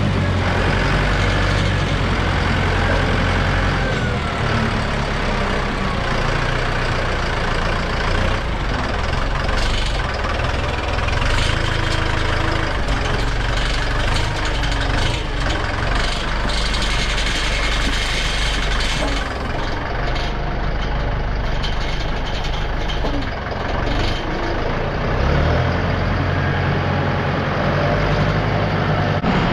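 A heavy farm-machine engine running steadily, with scattered knocks and rattles through the middle stretch.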